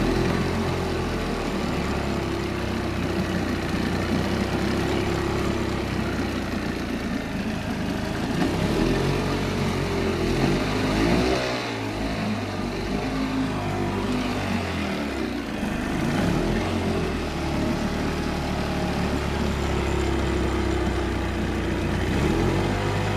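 Evinrude 25 hp commercial tiller outboard, a two-cylinder two-stroke, running after its first start of the season, its engine speed rising and falling several times as the throttle is worked and holding steady in between. The owner says it runs a little rich and does not like to hold a low idle in neutral.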